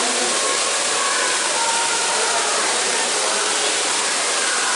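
Small waterfall pouring: a steady, even rush of falling water.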